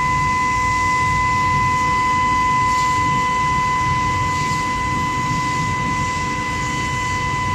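Billet induction heating furnace running: a steady high-pitched whine from the induction coil over a low industrial rumble.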